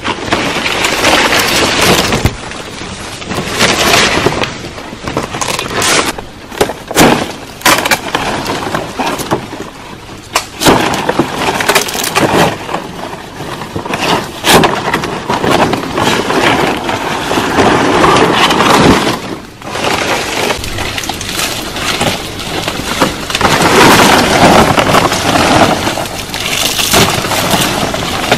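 Branches and wood being broken and handled: repeated sharp cracks and snaps among rustling and knocking.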